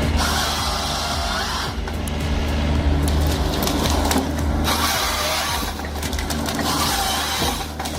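Heavy forestry machine's engine running steadily, with three stretches of harsher, higher-pitched working noise, each lasting about a second, near the start, in the middle and near the end.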